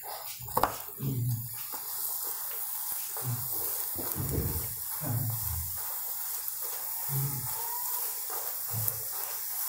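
Saag paratha frying in ghee in a nonstick pan: a steady sizzle, with soft low thuds about once a second as a silicone spatula presses the bread down to make it puff.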